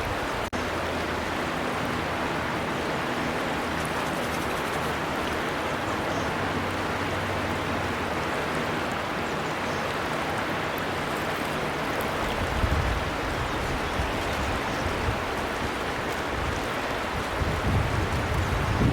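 River water rushing and splashing steadily, with a low rumble that comes and goes in the second half.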